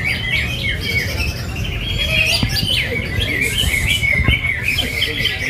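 Many caged cucak hijau (greater green leafbirds) singing at once at a bird-song contest, a dense, overlapping chatter of chirps and trills over a steady low rumble.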